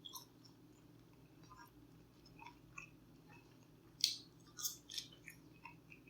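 A person chewing food close to the microphone, with small wet mouth clicks throughout. A few louder crackly noises come about four to five seconds in.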